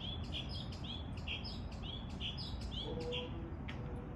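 A small songbird calling a rapid series of short, sharp chirps, about three a second, that stops about three seconds in.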